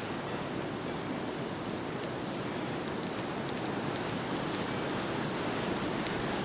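Blizzard wind blowing, a steady rushing noise.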